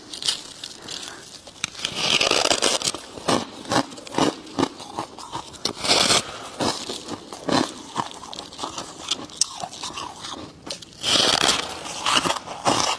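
Dry chunks of freezer frost being bitten and chewed, in a run of squeaky crunches and crackles. The loudest bursts come a couple of seconds in, around the middle and near the end.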